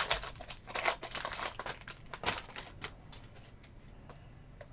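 Crinkling of a foil trading-card pack wrapper being torn open and handled, loudest and densest in the first two and a half seconds. After that there are only a few light clicks.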